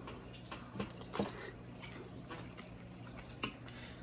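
A person chewing a mouthful of macaroni, with a few soft wet mouth sounds and small clicks, over a steady low hum.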